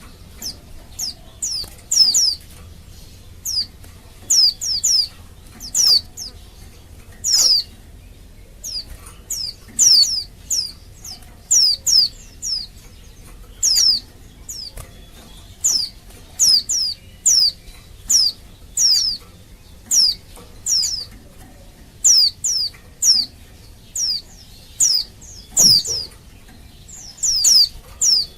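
Female white-eye (pleci) giving repeated short, high call notes that slide down in pitch, singly or in quick pairs and triplets, about one to two a second: the contact call of a female in breeding condition, calling to males.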